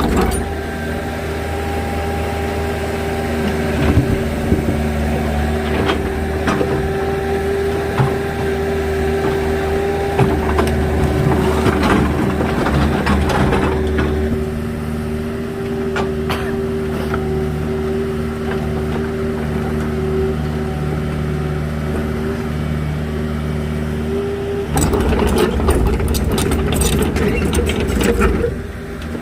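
A machine's engine running steadily with a constant whine, broken by louder, noisier passages about twelve seconds in and again near the end.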